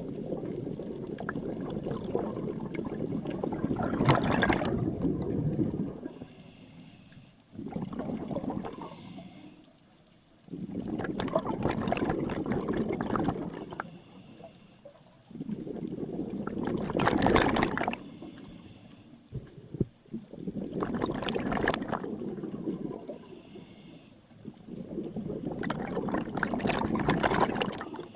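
A scuba diver breathing through a demand regulator underwater. About six long bursts of exhaled bubbles rumble out at steady intervals, with a faint high hiss of the regulator on each inhalation between them.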